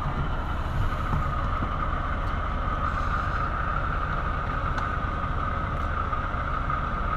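Steady mechanical drone of an idling engine, with a constant high hum in it and a few faint clicks.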